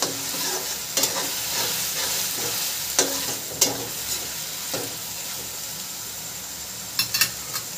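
Onion, tomato and ginger-garlic masala sizzling steadily as it fries in mustard oil in a metal kadhai. A perforated metal spatula stirs and scrapes it, striking the pan with sharp clinks every second or two and a quick run of clinks near the end.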